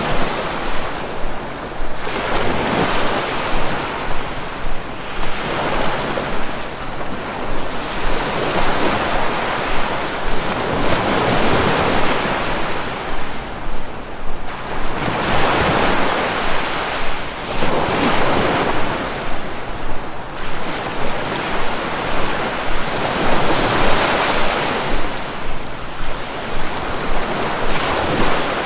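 Sea waves breaking and washing on the shore, a continuous surf that swells and eases every few seconds.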